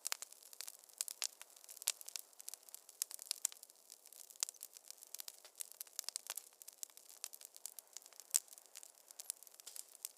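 Wood fire crackling in a fireplace: a dense, irregular run of sharp pops and snaps over a soft hiss, with a louder pop near the end.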